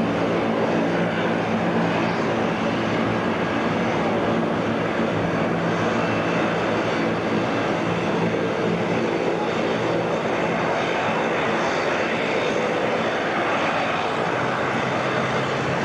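Airliner engines running steadily, a mix of held tones over a wide rushing noise.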